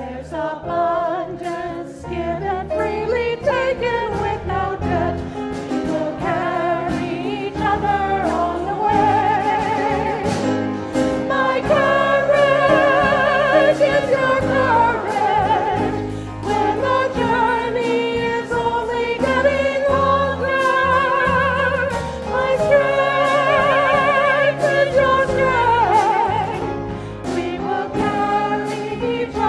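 Voices singing a hymn with vibrato over a steady low accompaniment.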